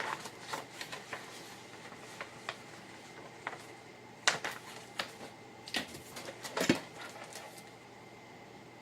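Scattered light clicks and taps of cardstock and a paper trimmer being handled on a work table, with the sharpest knock about two thirds of the way through.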